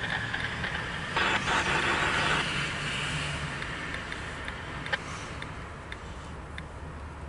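Freight train of empty autorack cars rolling past, a steady rumble and clatter of wheels on the rails, loudest a little over a second in. Faint regular ticks join in over the second half.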